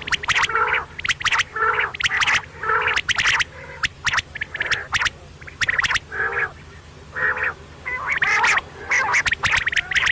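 Quail calling over and over in short calls, one or two a second, over a steady low hum.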